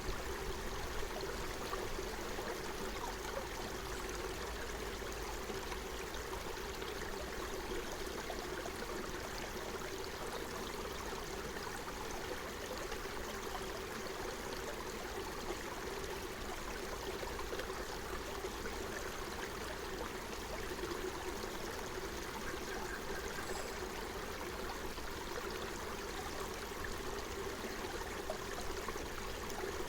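A small forest stream flowing over stones, a steady rushing and trickling of water.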